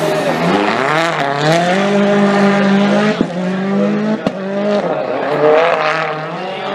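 Rally car's engine at high revs, its pitch climbing over the first second and a half and then holding. Two sharp cracks come about three and four seconds in, and the revs dip and climb again near the end.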